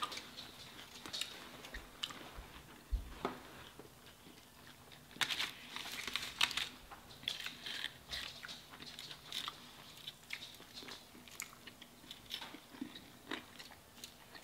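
People chewing and biting into cheeseburgers, close to the microphone: irregular mouth clicks and smacks.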